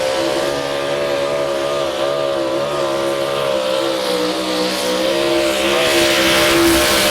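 Modified 4x4 pulling truck's engine running at high revs. Its pitch wavers slightly and it grows a little louder near the end.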